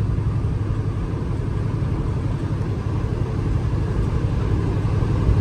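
Semi truck's diesel engine running steadily at cruising speed, a constant low drone with road noise.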